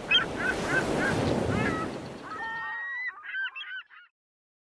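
Birds calling in short honks repeated about four times a second over a rushing noise, then a flurry of sliding calls that cuts off about four seconds in.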